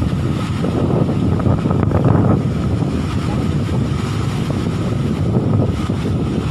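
Fast-flowing floodwater rushing, with wind buffeting the microphone.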